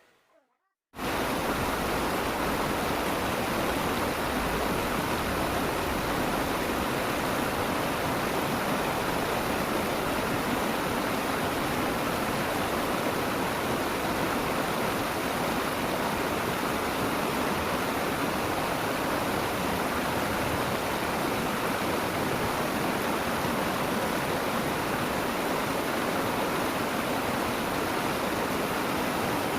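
Steady rush of flowing stream water, cutting in suddenly about a second in.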